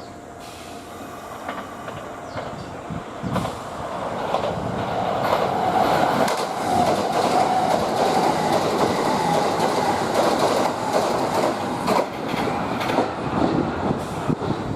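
Kintetsu limited express electric train running through the station past the platform. Its rumble builds over several seconds to a loud, steady roar with repeated wheel clicks over the rail joints, then begins to ease near the end.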